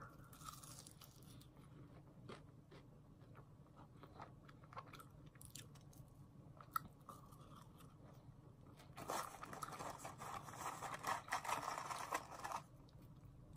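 A person chewing McDonald's fries close to the microphone, with scattered small crunches and mouth clicks. A louder stretch of chewing comes about nine seconds in and lasts a few seconds.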